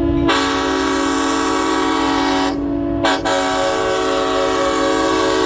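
Diesel locomotive air horn sounding, a chord of several steady tones held in long blasts, with two brief breaks near the middle. The horn belongs to the Clinchfield 800, an EMD F3.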